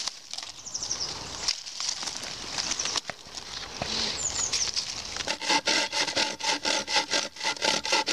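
Hand saw cutting wood in quick, even strokes, starting about five seconds in; before that, scattered crackles and rustling.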